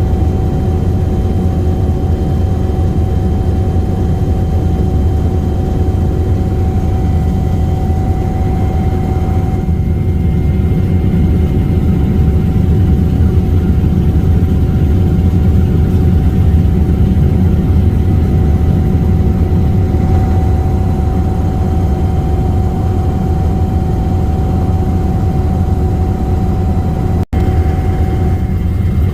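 Sikorsky S-92 helicopter in flight: a steady, loud rumble of rotors and twin turboshaft engines with a constant whine running over it. The sound cuts out for a split second near the end.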